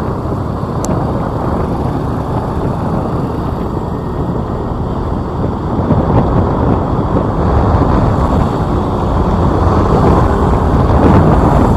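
Wind buffeting the microphone of a moving motorbike, a steady low rushing mixed with traffic noise, getting louder toward the end.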